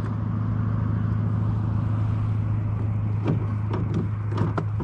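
Boat motor running with a steady low hum, with a few faint knocks and clicks in the last couple of seconds.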